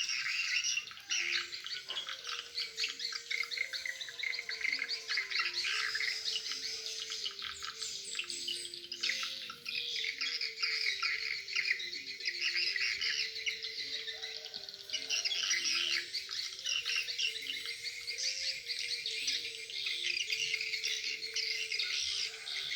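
Swiftlet-house lure call (suara panggil) played through tweeter speakers. It is a dense, continuous twittering of swiftlet chirps, with a low tone underneath that steps back and forth between a few pitches.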